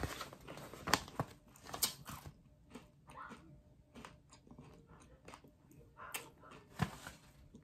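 Faint, irregular crunching clicks of a person chewing popcorn with the mouth closed.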